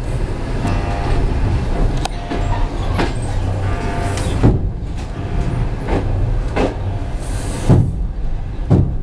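Passenger train carriage running, heard from inside the car: a steady low rumble of wheels on rail with irregular knocks and rattles. A faint whine sounds in the first few seconds.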